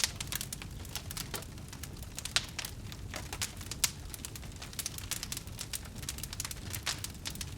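Wood fire burning, with dense irregular crackles and pops over a low steady rumble of the flames; a few sharper pops stand out.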